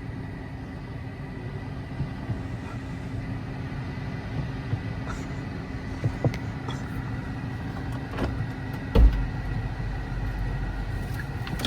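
Chrysler 300S engine idling with a steady low rumble and hum. There are a few light clicks, and a short low thump about nine seconds in.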